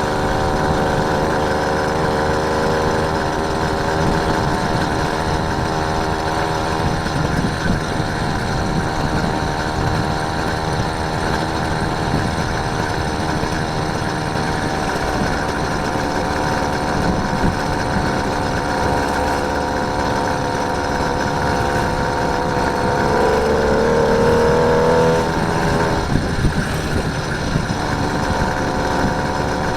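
Motorised bicycle's small engine running steadily under way. It speeds up about 23 seconds in, then eases off about 26 seconds in.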